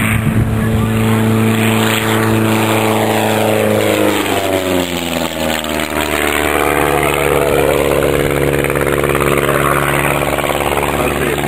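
Light propeller aircraft flying a low pass: its piston engine drones steadily, then drops in pitch as it goes by about five seconds in, and runs on at the lower pitch.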